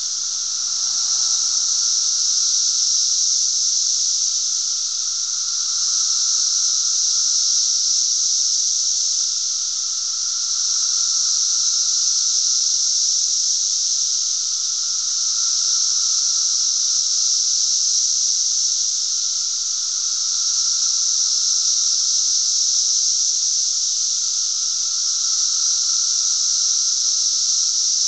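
Dense chorus of periodical cicadas (the 17-year Brood XIII): a loud, steady high hiss-like drone, with a lower droning tone that swells and fades about every five seconds.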